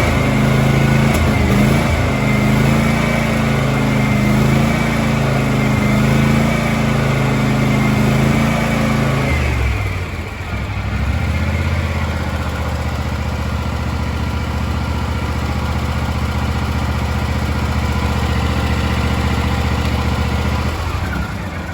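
John Deere X384 lawn tractor's 22 hp twin-cylinder Kawasaki engine running steadily at speed, then dropping to a lower, steady speed about ten seconds in.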